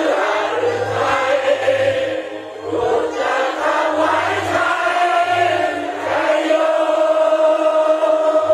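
A large crowd singing together in unison, settling into one long held note about six seconds in.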